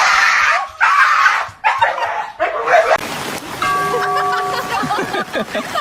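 A dog barking loudly, three harsh calls in the first two and a half seconds, followed by a noisier stretch with a few steady held tones.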